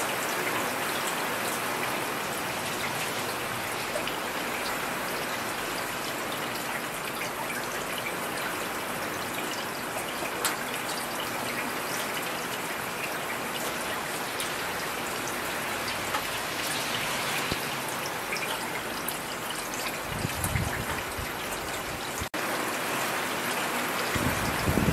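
Steady rain falling, an even hiss of drops, with a low rumble twice near the end.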